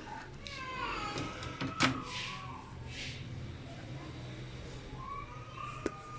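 A cat meowing: a drawn-out, wavering cry about half a second in and another near the end, over a low steady hum. Sharp clicks come at the start, about two seconds in, and just before the end.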